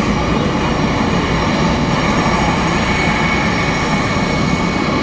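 Jet engines of Blue Angels F/A-18 fighters running steadily: a loud, even jet noise with a faint whine.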